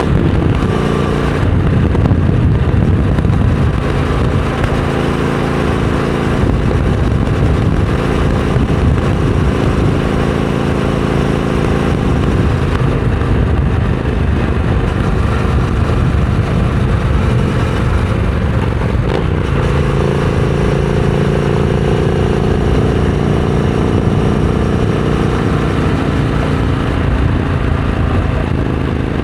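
Triumph Scrambler 900 parallel-twin engine running through a Vance & Hines exhaust while the motorcycle is ridden, mixed with wind and road noise. About twenty seconds in, the engine note settles into a steadier, more even tone.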